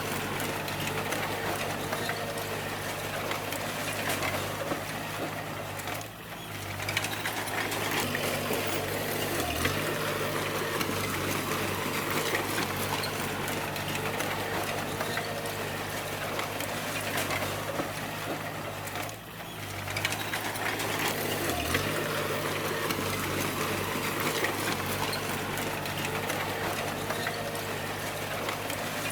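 Bulldozer's diesel engine running steadily under a dense rushing noise, its note sagging briefly a few times as it takes load, with two short dips in the overall sound.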